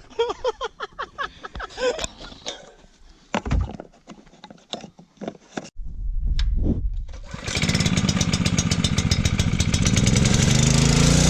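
Dirt bike engine starting after refuelling: it fires about six seconds in, settles into a loud, fast-pulsing run, then revs up near the end.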